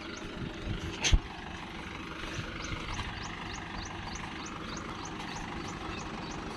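Tractor engine running steadily under background music, with one sharp knock about a second in.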